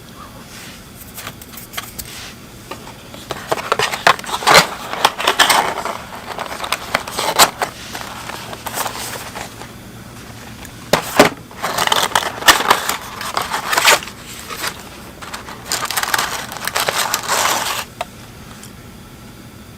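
Close-up crunching and crackling handling noise in three long spells, dense with small clicks, with a sharp knock about eleven seconds in.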